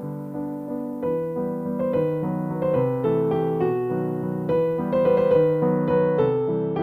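Background piano music: a gentle melody of single notes over held chords, the notes getting brighter and busier about a second in.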